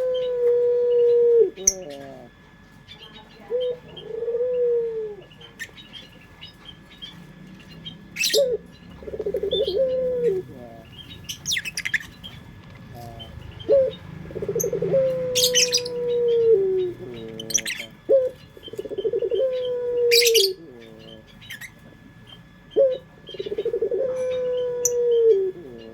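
Puter pelung turtle dove cooing over and over, about every five seconds: each coo is a short rolling burst followed by a long drawn-out note that falls away at its end. Short, sharp high chirps from other small birds come in between and over the coos.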